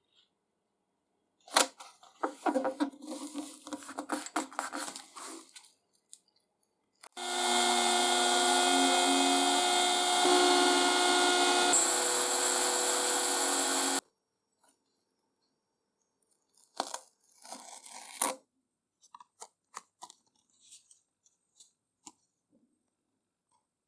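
A power tool running steadily for about seven seconds, with a steady whine in its sound, starting and stopping abruptly. Before and after it come bouts of clattering and light knocks from tools and parts being handled.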